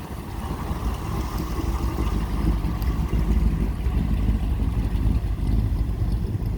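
A car or truck driving past, its engine rumble growing louder over the first couple of seconds and then holding steady.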